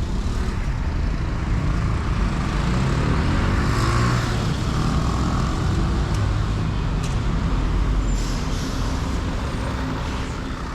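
Street traffic with a heavy vehicle's engine running close by.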